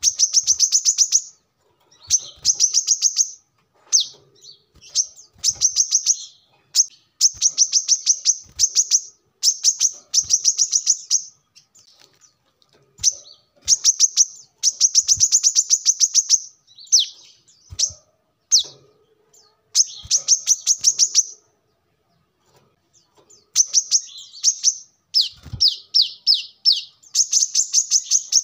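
Brown-throated sunbird (kolibri kelapa) singing: repeated high, fast chattering phrases of a second or two each, separated by short pauses.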